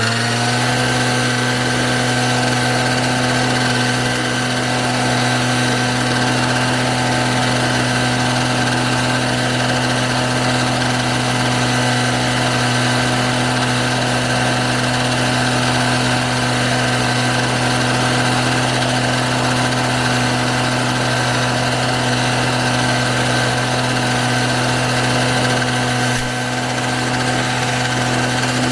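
Engine of a self-propelled grass mower running steadily at constant speed, with a slight momentary drop in level near the end.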